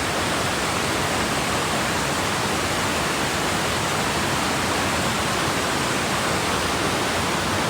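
Vickery Creek's water rushing and roaring over rocks in a steady, unbroken wash of noise.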